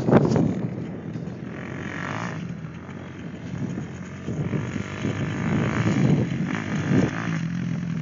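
Motocross bikes' engines revving on the track, swelling and fading as they pass. The loudest moment is right at the start, and the sound is quieter after that.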